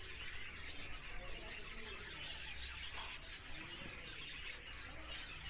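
Many small finches chirping and twittering continuously, a steady high chatter with no pauses.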